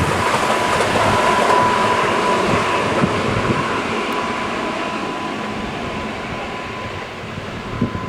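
Keihan electric train running past on a curve, its rumble slowly fading, with a steady high-pitched tone from the wheels squealing on the curved track. A short thump near the end.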